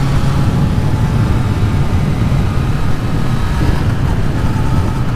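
2018 Kawasaki Z900's inline-four engine running steadily while the bike is ridden, with wind rushing past the microphone.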